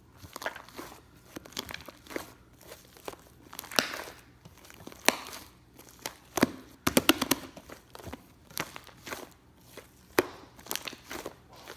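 Sticky, fluffy slime being pressed and stretched by hand, giving irregular clicking pops and crackles, with a quick run of pops about seven seconds in.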